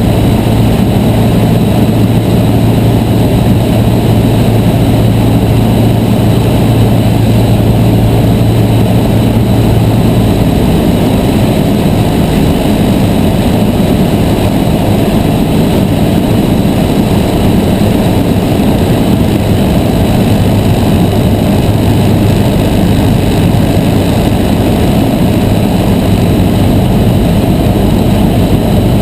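Cessna 152's four-cylinder Lycoming engine and propeller running steadily in flight. About ten seconds in, the engine note drops a little.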